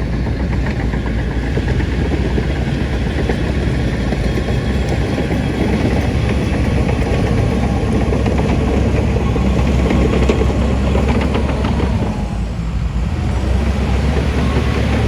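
Diesel engine of heavy earthmoving machinery running steadily, easing off briefly about twelve seconds in.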